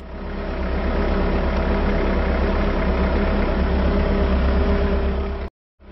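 The diesel engine of a JCB 515-40 compact telehandler idling steadily, growing louder over the first second. It cuts off abruptly about five and a half seconds in, then comes back.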